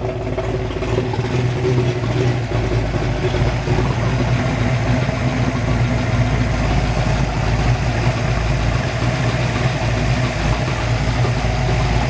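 Kiekhaefer 482 cubic-inch race boat engine idling steadily.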